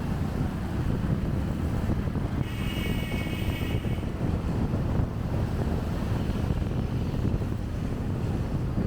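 Wind buffeting the microphone over the steady low rumble of a motorbike riding in traffic. About two and a half seconds in, a vehicle horn sounds for about a second and a half.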